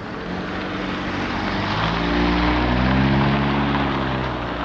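A propeller aircraft flying over, its engine drone swelling to its loudest about three seconds in and then fading, the hum shifting in pitch as it passes.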